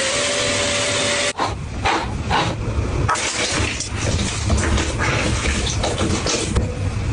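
A small motor running with a steady whine over a hiss stops abruptly about a second in, followed by irregular rubbing and rustling noises.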